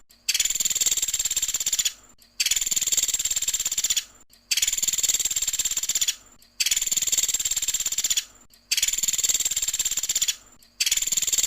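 Pelatuk sampit bird singing its rapid, high trill in bursts of nearly two seconds, repeated evenly with short pauses, about six times.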